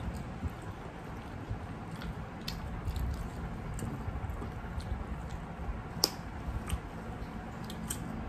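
Close-up chewing and wet mouth sounds of rice and curry being eaten by hand, with scattered small sharp clicks; the sharpest click comes about six seconds in.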